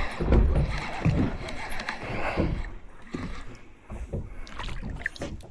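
Wind rumbling on the microphone, then scattered small splashes and knocks as a freshly caught fish flaps and flicks water on the boat.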